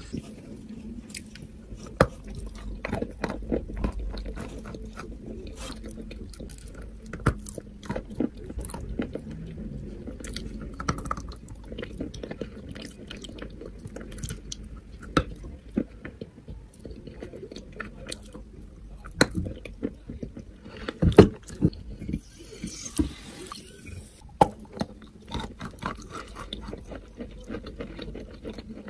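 Close-up chewing of lumps of natural chalk: repeated sharp crunches as pieces are bitten off, between stretches of softer grinding and mushy chewing.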